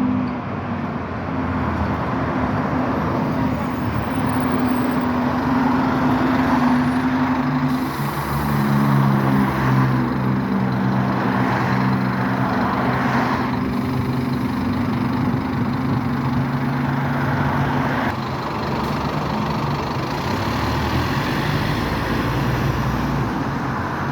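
Scania N270UD OmniCity double-decker bus with its five-cylinder diesel running, the engine note shifting in pitch about a third of the way in and again later. About a third of the way in there is a sudden burst of compressed-air hiss from the bus's air system.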